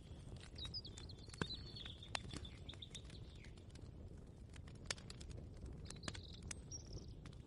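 Soft ambient soundscape: birds chirping in short runs, with scattered light clicks and knocks over a low, steady rumble.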